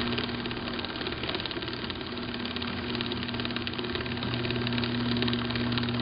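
Garage door opener motor running steadily as it drives the door along its track, a continuous mechanical hum.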